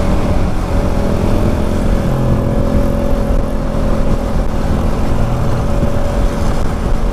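Motorcycle engine running steadily while riding, with a constant whine, under the low rumble of wind and road on a rider-worn action-camera microphone.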